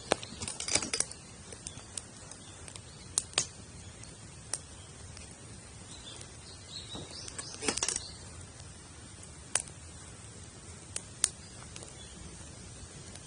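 Wood campfire burning in a teepee stack, crackling with sharp, scattered pops over a steady low hiss. Bursts of rustling clatter come at the start and about eight seconds in.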